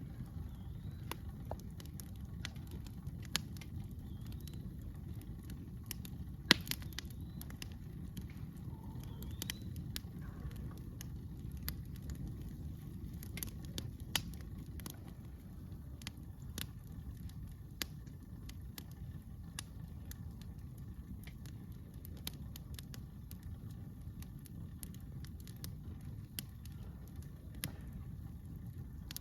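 Campfire crackling, with sharp irregular pops, the loudest about six and a half seconds in, over a steady low rumble.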